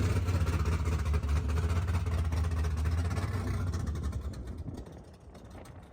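Car engine running with a low, steady note, then fading away about four seconds in.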